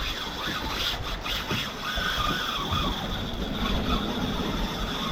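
Fishing reel drag screaming in a steady high whine as a big fish runs and strips line off the reel.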